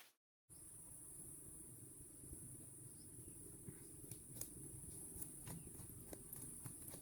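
Faint, steady high-pitched chorus of rainforest insects, starting about half a second in after a moment of silence, with scattered soft ticks and clicks.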